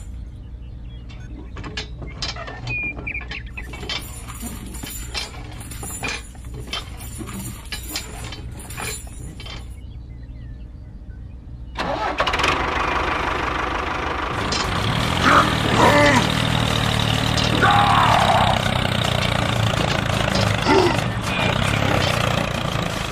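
Faint clicks and knocks over a low hum, then about halfway through a small engine-like motor sound starts up suddenly and runs on steadily and louder.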